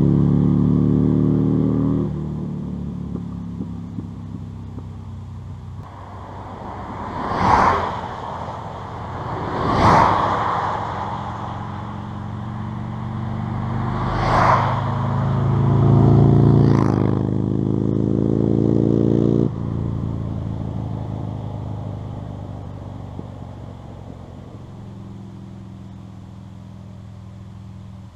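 Buell XB9's air-cooled V-twin engine running, its speed stepping down a couple of seconds in, climbing gently later and dropping again about two-thirds of the way through. Four brief, loud swells of noise rise and fall over it.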